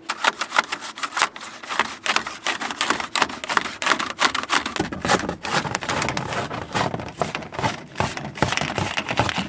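Drain snake being fed down an air-conditioner condensate drain pipe, a dense run of irregular clicking, rattling and scraping as the cable works through the pipe to clear debris.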